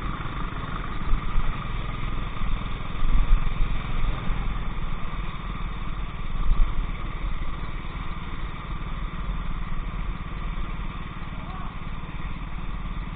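Go-kart engine running at low revs, a steady low rumble with no clear rises in pitch, and a few brief surges in loudness.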